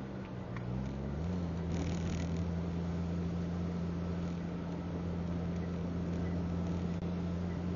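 Car engine running steadily at a cruise with road noise. About a second in its note shifts slightly and grows louder, then holds steady.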